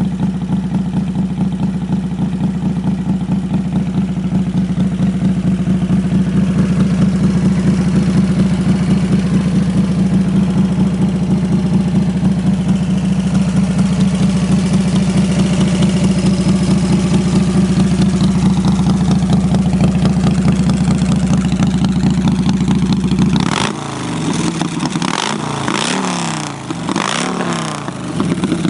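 1997 Harley-Davidson Fat Boy's Evolution V-twin idling steadily through Vance & Hines aftermarket exhaust with an even pulsing beat, then revved up and down several times near the end.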